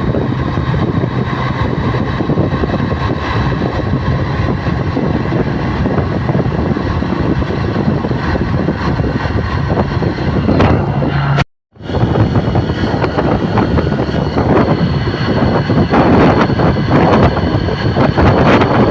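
A vehicle running on the move, a steady loud noise with wind on the microphone. It cuts out completely for a moment about two-thirds of the way through, then resumes.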